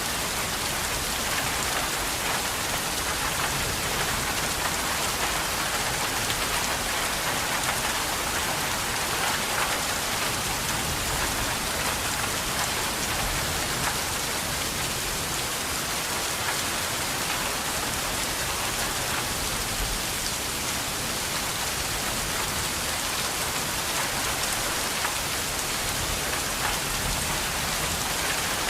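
Steady rain falling and pattering on a surface, an even hiss with many fine drop impacts and no change in intensity.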